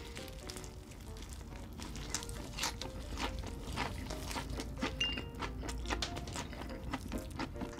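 Close-miked chewing of crispy breaded fried chicken: a run of crunchy crackling clicks through the mouthful, with soft background music underneath.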